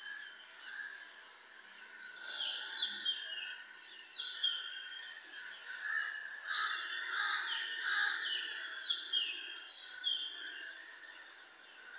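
Birds calling: short falling chirps repeated every second or so over a steady background of chattering calls.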